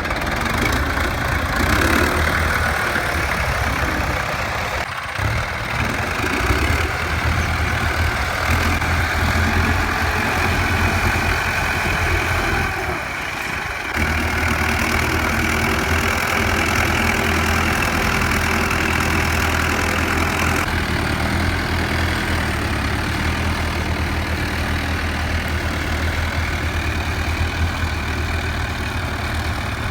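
Tractor diesel engine running steadily, with a short dip in level a little before halfway through.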